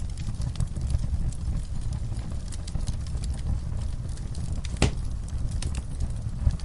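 Fireplace fire crackling: a steady low rumble of flames with frequent small crackles and snaps, and one louder pop a little under five seconds in.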